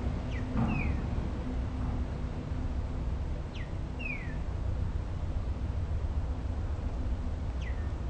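Short, high, falling bird chirps: a pair about half a second in, another pair about four seconds in, and one near the end. Under them runs a steady low rumble.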